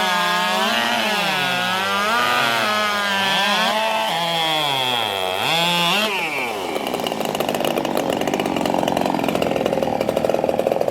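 Racing chainsaw engine revved up and down in repeated swells, then dropping in pitch about six seconds in as it bogs into the wood, running steadily rough while it cuts through the log.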